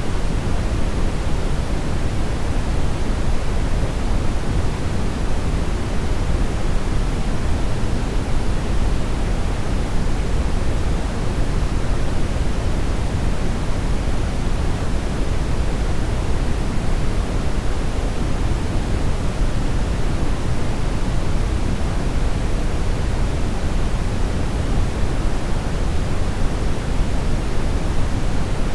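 Steady brown noise: a continuous, even rushing hiss weighted heavily toward the low end, without any change.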